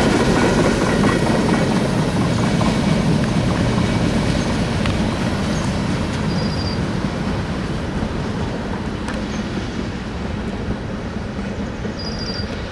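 CSX freight train rolling past, a steady rumble of wheels on rail that slowly grows quieter.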